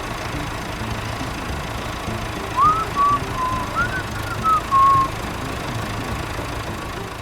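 A vehicle engine running steadily with a low rumble. About two and a half to five seconds in there is a run of short whistled chirps that rise and fall in pitch.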